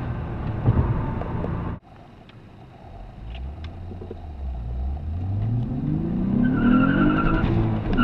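2004 Acura TL's 3.2-litre V6 breathing through an Injen cold air intake, heard from inside the cabin. The engine sound cuts off suddenly about two seconds in, then builds from a low rumble into a rising pull as the revs climb. A high whistling tone joins near the end.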